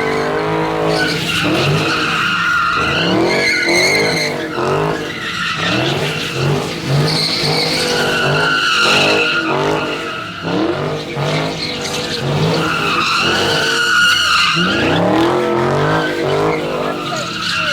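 Dodge Hemi V8 muscle car sliding through an intersection: the engine revs up and down over and over while the tyres squeal.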